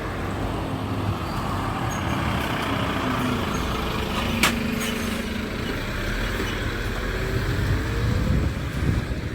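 Road traffic with a heavy truck's engine running, its note rising slowly near the end as it pulls away. A single sharp click comes about halfway through.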